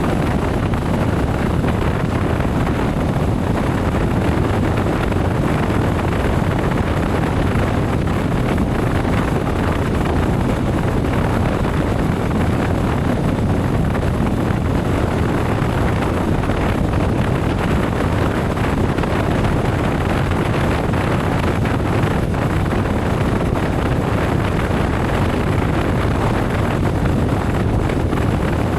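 Steady wind rush on the microphone of a motorcycle riding at a constant speed, with engine and road noise underneath and no change in pace.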